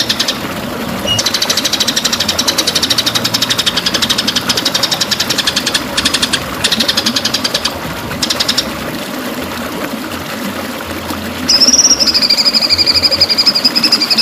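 White-rumped shama (murai batu) song: a dense, rapid rattling trill of fast repeated notes, broken by short pauses. About eleven seconds in, it gives way to one long, high, wavering whistle.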